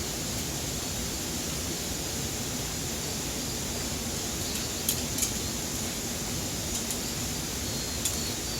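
Steady rushing noise, with a few faint light clicks about five seconds in and again near the end.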